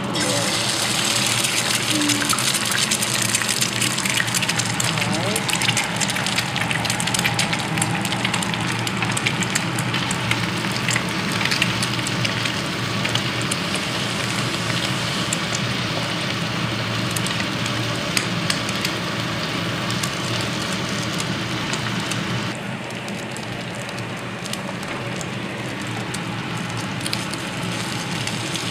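Sliced meat and onion sizzling in a frying pan with many small pops while a spatula stirs them. The sizzle drops a little about three-quarters of the way through.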